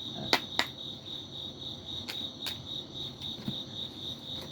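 Cricket chirping steadily, about three pulses a second. A few sharp taps cut across it: two close together in the first second, the loudest sounds here, and two more around two seconds in.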